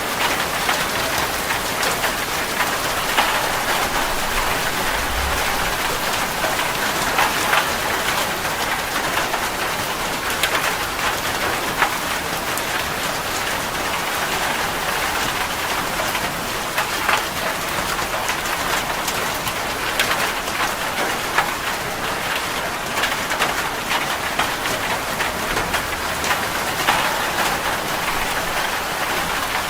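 Steady rain falling on a surface, with many separate drop impacts ticking through a continuous patter.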